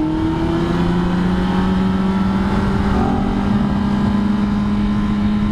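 Honda CBR600RR inline-four engine running at a steady cruising pitch, with wind rushing over the helmet microphone.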